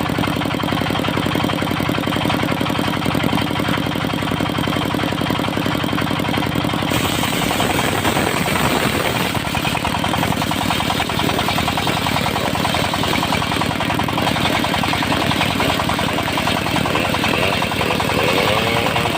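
Engine of a mobile circular-saw sawmill running steadily; about seven seconds in the sound turns noisier, with more hiss.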